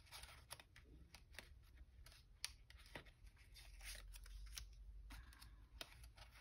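Faint paper handling on a craft table: soft rustles and scattered light clicks and taps as paper pieces are picked up and laid down.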